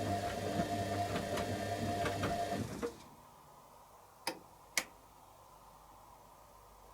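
Candy Aquamatic 100F washing machine's drum motor running during wash tumbling, with a steady hum, a whine and light ticking, stopping about three seconds in. Two sharp clicks from the machine follow about half a second apart.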